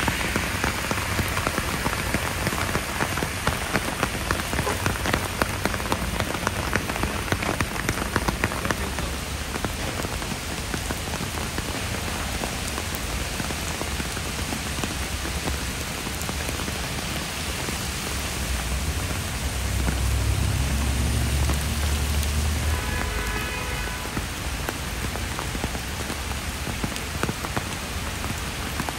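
Heavy rain pouring down and splashing on hard surfaces: a steady hiss with many sharp drop impacts, densest in the first several seconds. A low rumble swells about twenty seconds in and fades a few seconds later.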